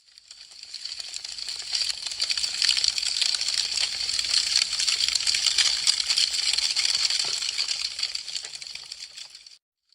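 Wood fire crackling: a dense stream of small snaps and pops from burning branches. It swells up from silence over the first couple of seconds and fades away again near the end.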